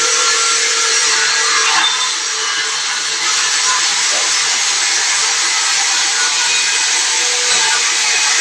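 A machine running steadily with a loud, even hiss and a faint steady hum underneath.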